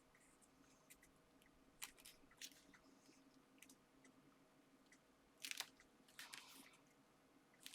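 Faint, scattered crinkles and rustles of paper and card being handled, a few short ones, the loudest about five and a half seconds in.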